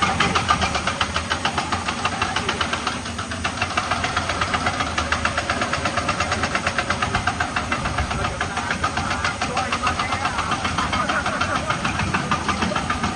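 Heavy quarry equipment's engine running steadily with a fast, even knocking pulse.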